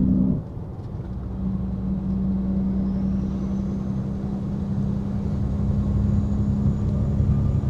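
Semi-truck engine and road noise inside the cab while driving, a steady low drone. It drops in level about half a second in, then builds gradually.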